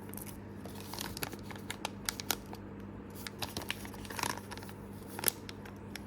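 Miniature Mini Brands toy packaging, tiny cardboard pizza boxes and plastic blind bags, handled and opened close to the microphone: scattered crinkles, small taps and clicks, the sharpest a little after five seconds in.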